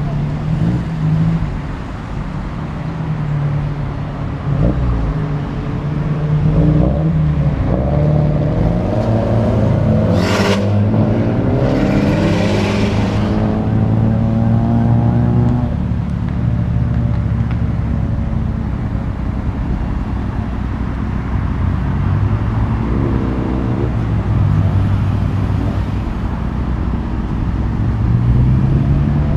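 Several cars driving off one after another, engines revving and exhausts rising in pitch as they accelerate past, with a sharp crack about ten seconds in.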